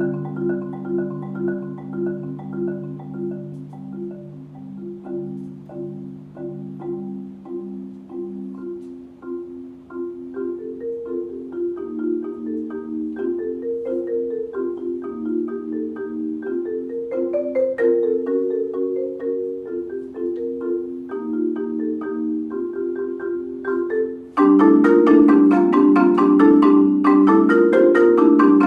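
Solo marimba played with four mallets. It opens with held low chords, moves into a quick pattern of shifting notes, and about 24 seconds in turns suddenly louder and denser.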